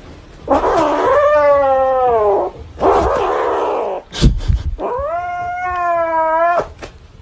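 A cat yowling: two long, drawn-out calls, the first falling in pitch at its end. Between them come a breathy, noisy stretch and a couple of knocks.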